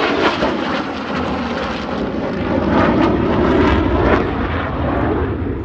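F-22 Raptor's twin jet engines roaring past in a flyby, swelling to a peak about three to four seconds in and then fading as it moves away.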